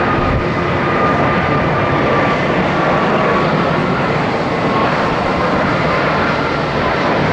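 Jet airliner engines running loud and steady, a close airport aircraft with a faint high whine that drifts slightly lower in pitch.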